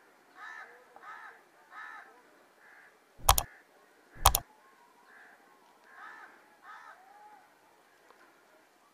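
Birds calling, a run of short repeated calls, with two loud sharp knocks about a second apart near the middle.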